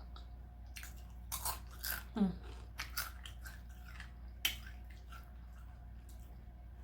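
Close-miked chewing of a crunchy hard taco shell: a handful of sharp, separate crunches with quieter chewing between them.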